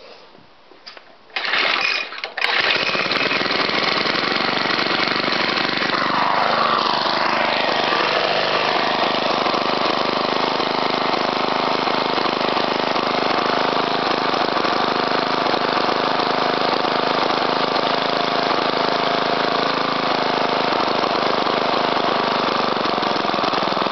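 Rebuilt Suffolk Punch mower's four-stroke engine pull-started: a couple of quick pulls about a second and a half in, then it catches and runs steadily. A few seconds after catching, its speed drops before settling into an even run.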